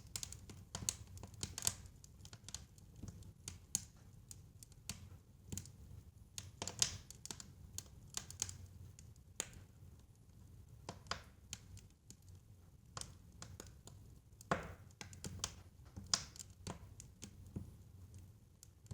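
Fire crackling in a fireplace: irregular pops and snaps, some sharper than others, over a low steady rumble.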